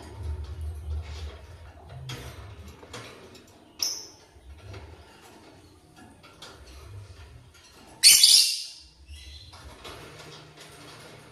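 Lovebirds calling: a short high chirp about four seconds in, then a loud harsh screech a little after eight seconds, with soft clicks and rustling between.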